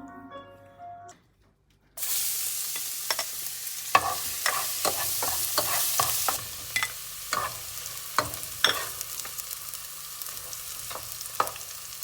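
Background music ends about a second in; after a short pause, food sizzles in a hot pan while a utensil clacks against the pan as it is stirred. The sizzle eases a few seconds later but keeps going, with more scattered clacks.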